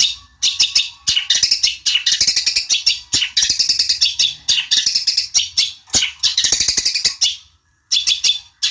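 Long-tailed shrike singing: fast, harsh chattering phrases of rapid notes in bursts of about a second, separated by short pauses, with a brief silence late on.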